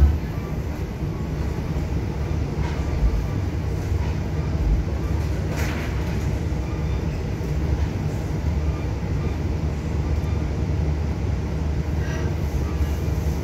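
Long Island Rail Road train hauled by a DM30AC locomotive, running along the line with a steady low rumble and a few faint clicks.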